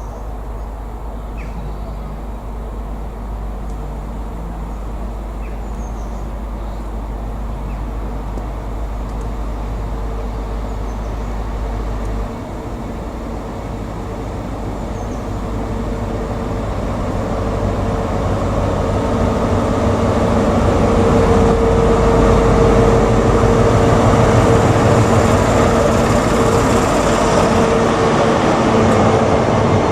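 Diesel train approaching, its engine note and running noise growing steadily louder as it comes closer. A steady hum strengthens over the second half.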